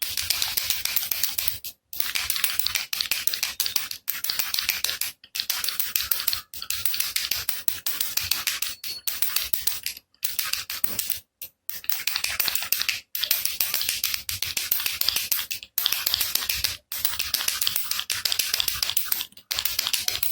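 Baby rattle shaken in quick bursts of one to two seconds each, about a dozen in all, with brief silent gaps between: a dense, bright rattling.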